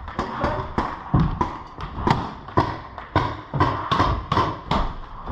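An irregular run of sharp knocks and pops, roughly three a second, the loudest about two and four seconds in.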